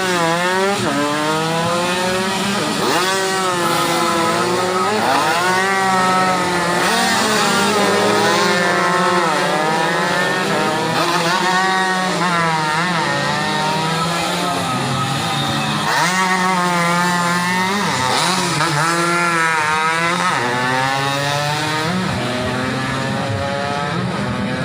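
Several tuned 120cc underbone racing motorcycles at full throttle, engines overlapping as they race past. Each engine climbs steeply in pitch, then drops at every gear change, over and over.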